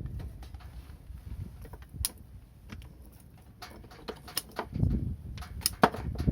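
Wood fire crackling, with scattered sharp pops, the loudest one near the end, over a low rumbling that swells around the middle.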